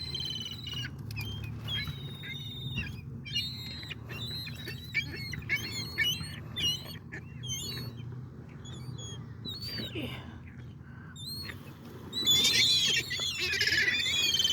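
A flock of gulls calling with short, repeated cries. In the last few seconds many overlapping calls crowd together in a louder burst as the birds squabble over thrown food.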